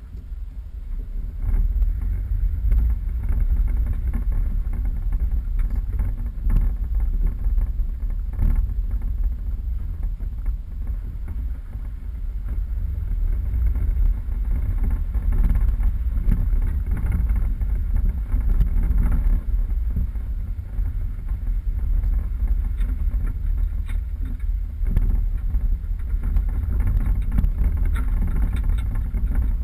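A 4x4 vehicle driving off-road: a steady low rumble from the engine and the microphone buffeting, with scattered knocks and rattles.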